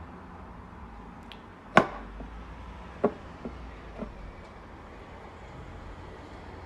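A few sharp knocks of a utensil against a dish while the matcha mixture is being mixed: one loud knock about two seconds in, then three lighter ones over the next two seconds.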